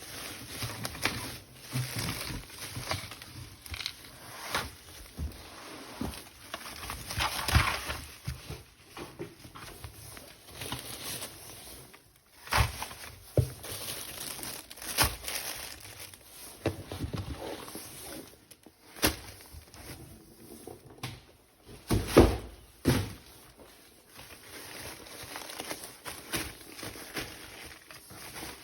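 Plastic packaging crinkling and tearing as toy pieces are unwrapped and handled, with irregular sharp clicks and knocks of hard plastic parts; the loudest knocks come about halfway through and again around two-thirds of the way through.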